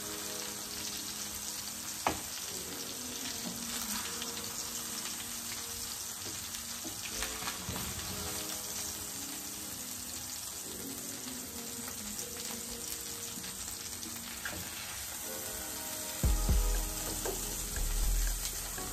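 Chicken breasts and olive oil sizzling in a hot cast-iron skillet: a steady frying hiss. A sharp click of tongs on the pan comes about two seconds in, and low thuds near the end.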